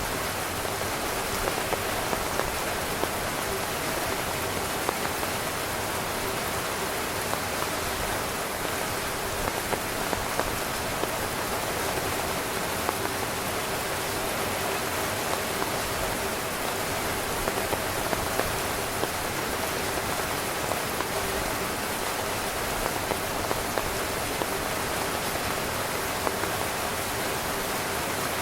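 Steady heavy rain pattering on a tent, a dense even hiss of drops with frequent small louder taps.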